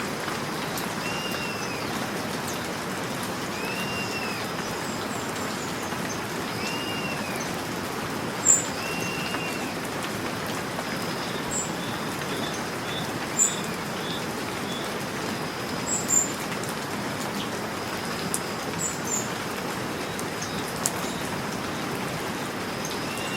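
Steady rain falling, with a bird giving a short rising-and-falling call about every three seconds in the first half. A few sharper, louder drops or drips land now and then.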